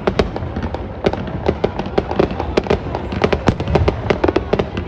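Fireworks going off: a rapid, irregular string of sharp bangs and pops, several a second and often overlapping, over a continuous low rumble.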